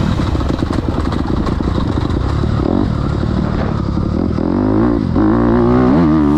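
Motocross bike engine running hard, its revs rising and falling repeatedly in the last couple of seconds.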